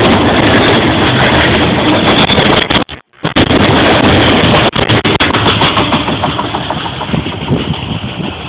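A train passing close by at speed, a loud rushing rumble with wind buffeting the microphone. The audio cuts out for a moment about three seconds in, and the noise eases toward the end as the train finishes passing.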